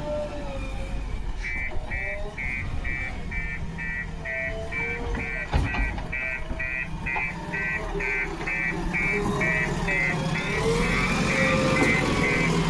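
Diesel engine of earthmoving machinery running steadily, with a reversing alarm beeping about three times a second from a second or so in. A single sharp knock comes about halfway through.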